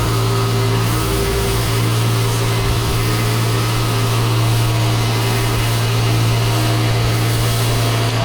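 Pressure washer running steadily: a constant low engine hum under the hiss of the water jet spraying.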